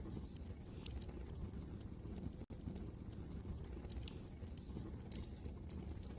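Wood fire crackling with irregular sharp pops over a steady low rumble of wind. The sound drops out for a split second near the middle.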